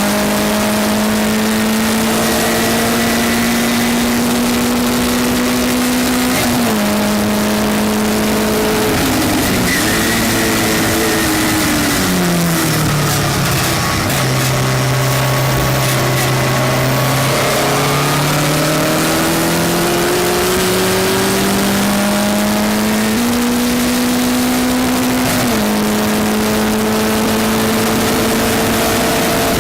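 Westfield race car engine at racing speed, heard onboard: it pulls up with sharp upshifts about a third of the way in, drops to a low, slow-corner pace around the middle after downshifting, then climbs again with two more upshifts near the end.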